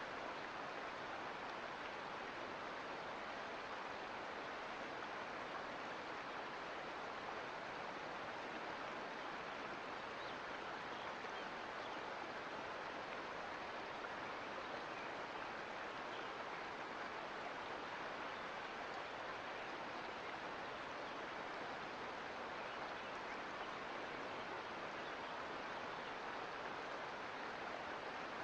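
A mountain creek's water running steadily over rocks, an even rushing with no breaks or changes.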